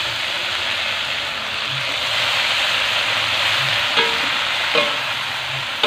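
Water spinach (kangkung) sizzling steadily in hot oil in a wok just after being added, with two short metallic clinks of the metal spatula against the wok about four and five seconds in.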